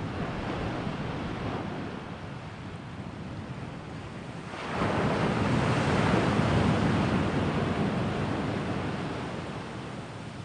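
Sea waves washing on the shore. About halfway through a bigger wave breaks with a sudden surge, then slowly washes out.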